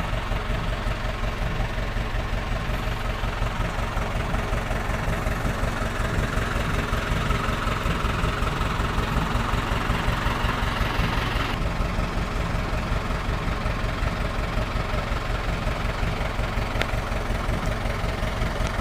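Truck engine idling steadily, with a fast, even pulse.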